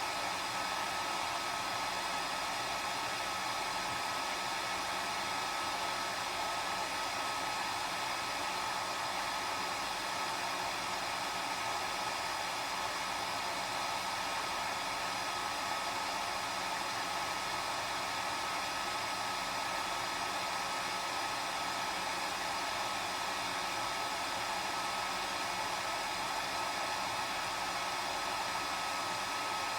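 Hair dryer running continuously at a constant speed: a steady blowing rush with a whine held on one pitch.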